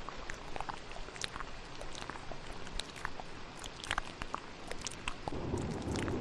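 ASMR mouth sounds, many quick wet clicks and smacks close to the microphone, layered over a steady hiss of rain. About five seconds in, a low rumble of thunder swells up beneath them.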